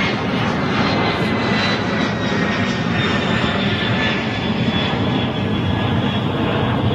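Jet airliner's engines running loud: a steady rushing roar with a thin high whine that sinks slowly in pitch.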